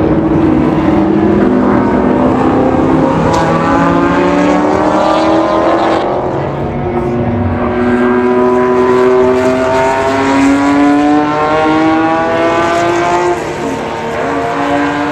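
Several historic racing car engines at full throttle, accelerating, their notes rising in pitch together, with a brief drop about 13 seconds in.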